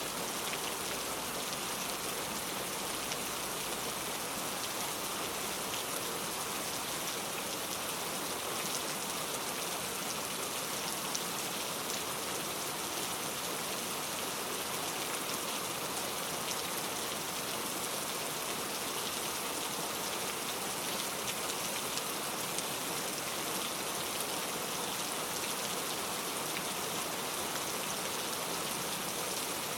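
Steady rain with no thunder, a dense hiss with many fine drop ticks on a surface.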